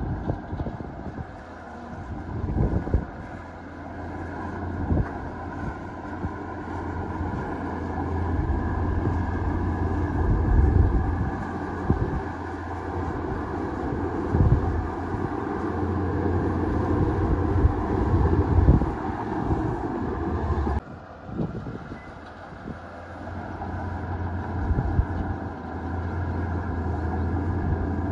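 Heavy diesel earthmoving machinery running and working, the engine rising and easing under load with scattered knocks and clanks. The sound drops off suddenly about three-quarters of the way through, then builds again.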